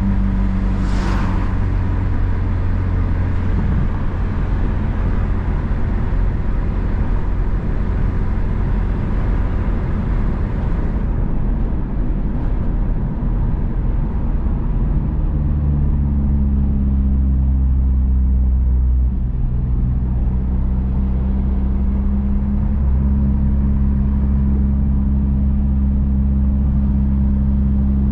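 Honda Civic Si's engine and road noise while driving, a steady engine drone with a brief hiss about a second in. About halfway through, the engine note steadies and its low drone gets stronger.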